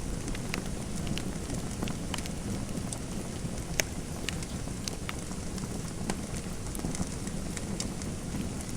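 Fireplace fire crackling: a steady low rumble of burning with irregular sharp pops scattered through it, one louder pop about four seconds in.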